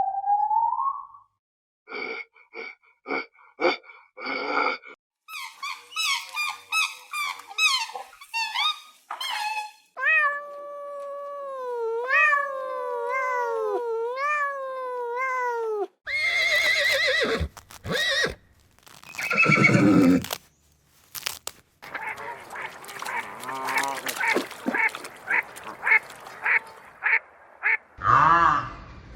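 A succession of farm animal calls from several separate clips cut together: short repeated calls, then a run of pitched calls that glide down in pitch, then noisier cries, with abrupt changes between them.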